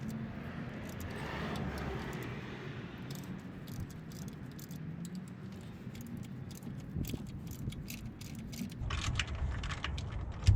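Small metal tools and parts clinking and rattling while being handled during the water pump removal, with scattered clicks and a busier clatter near the end, over a steady low hum.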